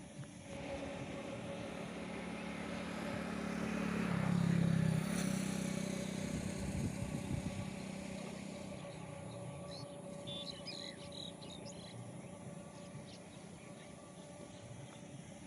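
A motor vehicle's engine hum growing louder to a peak about four to five seconds in, then fading as it passes, over outdoor background noise; a few bird chirps about ten seconds in.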